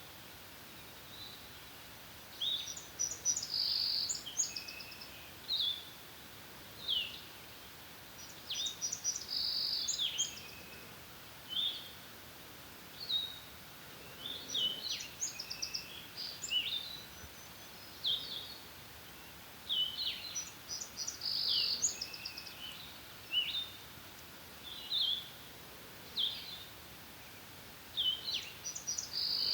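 Songbirds singing: a rapid, high song phrase repeats about every six seconds, with short chirps in between.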